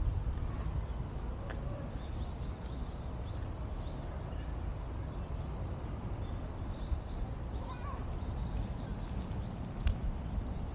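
Small birds chirping in short, scattered calls over a low steady rumble, with one sharp click near the end.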